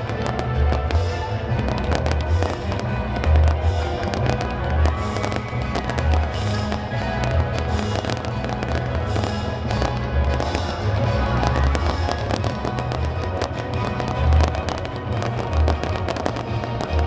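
Fireworks going off continuously: deep booming bursts several times a second, mixed with sharp cracks and crackling, over music playing throughout.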